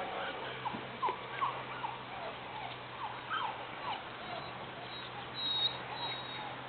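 Young standard poodle puppies, about 40 days old, whimpering and squeaking in a string of short, falling high-pitched whines, over a steady low hum.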